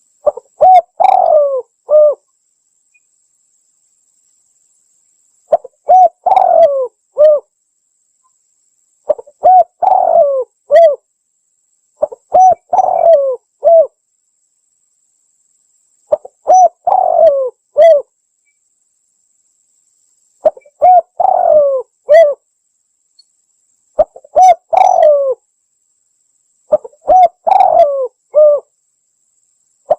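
Spotted dove cooing: eight short phrases of several low coos each, repeated every three to four seconds with silence between. It is played as a lure call for catching spotted doves.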